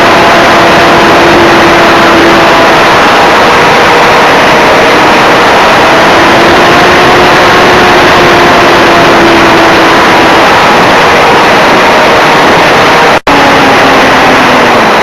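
Loud rushing wind noise on a model plane's onboard camera microphone, with the whine of the RC Cessna 182's electric brushless motor and propeller drifting slowly in pitch underneath. The audio cuts out for a split second near the end.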